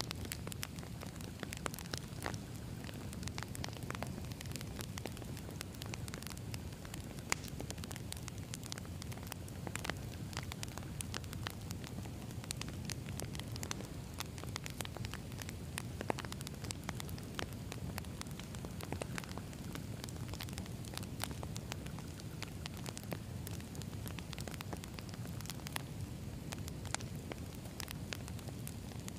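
Campfire of burning logs: a steady low rumble from the flames with frequent irregular crackles and pops from the wood.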